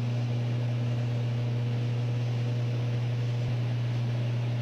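Steady drone of an aircraft in flight heard from inside the cockpit: a constant low hum over an even hiss, with no change in pitch or level.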